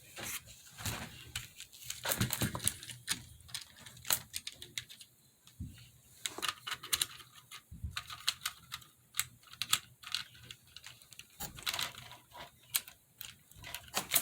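Irregular light clicks and clatter of plastic HO scale model train cars being set back on the track after a derailment.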